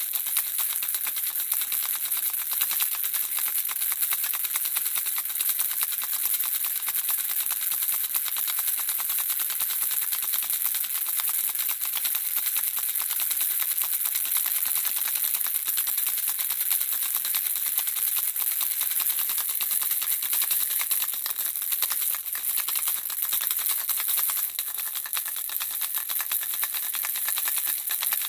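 Handheld baby rattle shaken without pause, the small pieces inside making a dense, steady, tinkling clatter.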